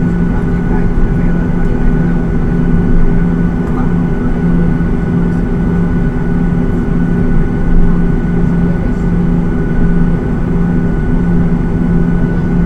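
Steady, loud cabin drone of a Boeing 737-800 airliner: engine and airflow rumble with a constant low hum and a faint higher whine.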